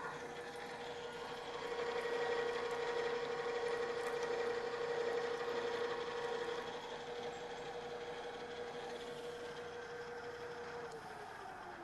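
Geared-head drill press running at low spindle speed with a steady gear whine. About eleven seconds in it is switched off, and the whine falls in pitch as it spins down.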